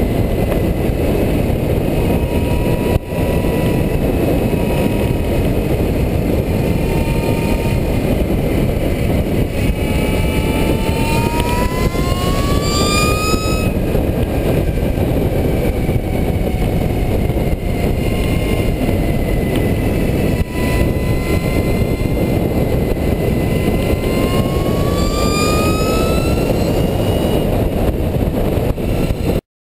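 Heavy wind rush over the camera at speed, with the high whine of the electric bicycle's 28 hp electric motor over it. The whine rises in pitch as the bike accelerates, once about ten seconds in and again about twenty-four seconds in, and drops back after each rise. The sound cuts off suddenly near the end.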